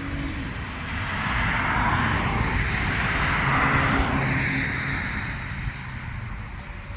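A vehicle passing by: its noise swells over a few seconds and then fades away.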